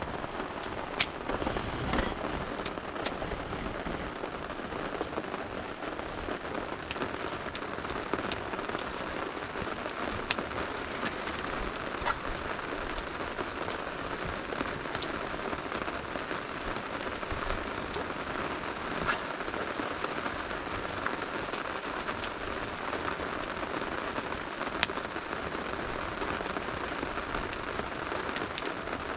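Steady rain falling with a campfire crackling: an even hiss of rain with scattered sharp pops.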